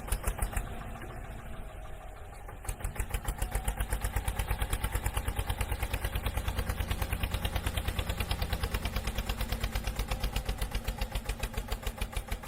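Tractor engine sound, a steady rapid chugging like a diesel running, getting louder about two and a half seconds in.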